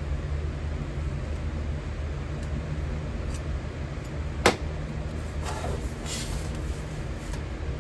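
A steady low hum with one sharp click about four and a half seconds in and a few fainter knocks after it.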